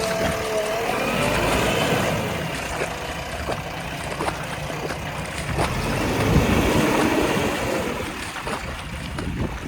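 Heavy diesel tractor and backhoe loader engines running hard under load, with wind buffeting the microphone.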